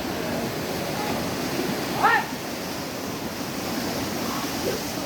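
Steady rush of river water where elephants are bathing, under a murmur of voices. A brief high-pitched cry rises and falls about two seconds in.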